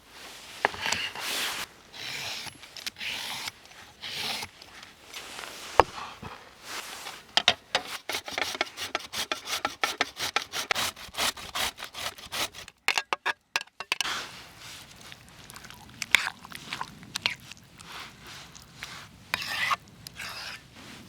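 Kitchen utensils rubbing and scraping in quick runs of short strokes while tzatziki is prepared, with a brief pause about two-thirds of the way through.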